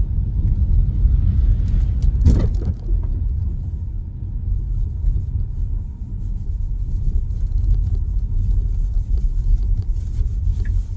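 Steady low rumble of road and tyre noise inside the cabin of a Tesla Model Y electric SUV driving on snowy pavement, with a brief thump about two seconds in.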